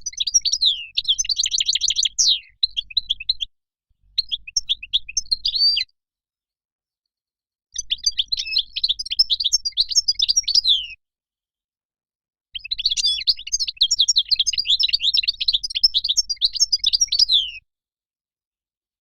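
European goldfinch song: fast, liquid twittering phrases of quick darting notes, given in four bursts of one to five seconds with silent gaps between, the last phrase ending a little before the end.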